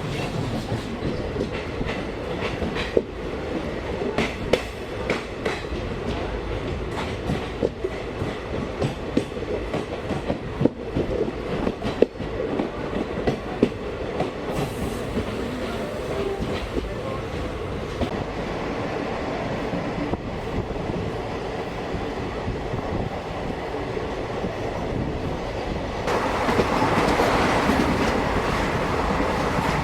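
Indian Railways passenger coach running along the line, with a steady rumble and wheels clicking over rail joints. About three quarters of the way through, the running noise gets louder and harsher.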